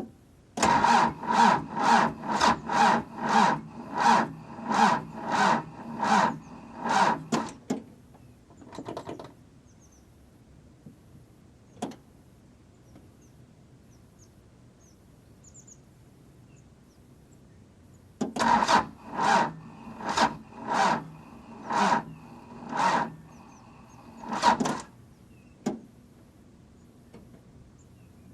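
The VW Taro's 2.4-litre diesel being cranked over slowly by the starter on a low battery in freezing cold, each compression stroke a separate chug about twice a second. It gets two long attempts and does not fire. On the second attempt the cranking slows as the weak battery fades.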